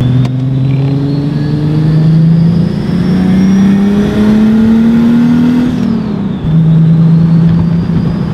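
Turbocharged BMW M30 straight-six engine heard from inside the car's cabin, pulling under acceleration. Its note climbs steadily for about six seconds, drops sharply, then holds steady, with a faint high whine climbing alongside. The boost builds but goes nowhere, which the driver puts down to a lot of boost leaks.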